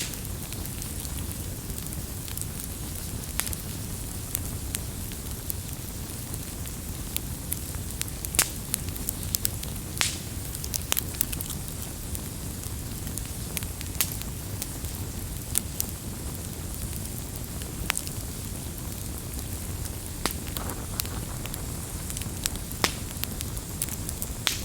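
Campfire burning with a steady low rush and irregular sharp crackles and pops from the burning wood.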